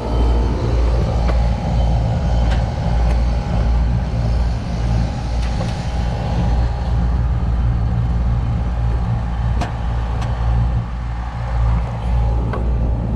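Trane packaged air-conditioning unit running, its condenser fan and compressor giving a steady low rumble with a constant hum, and a few light clicks.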